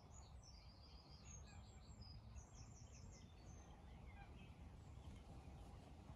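Faint, high-pitched bird chirps in quick runs during the first three seconds or so, over a low steady rumble, in otherwise near silence.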